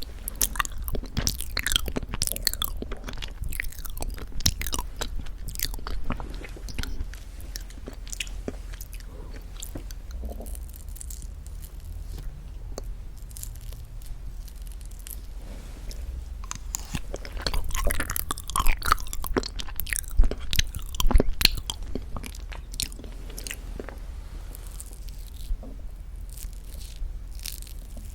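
Close-miked eating of very thick Greek yogurt with honey: sticky, wet mouth sounds and sharp clicks, busiest near the start and again a little past the middle.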